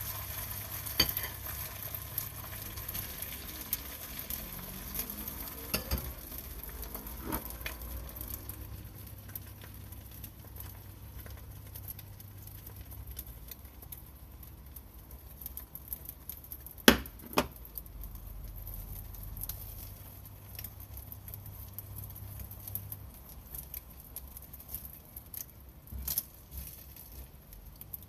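Batter pancakes frying in oil in a nonstick pan, with a light sizzle that is strongest in the first several seconds and then thins. Small scattered clicks and scrapes of utensils run through it. A little past halfway come two sharp taps close together, the loudest sounds, over a low steady hum.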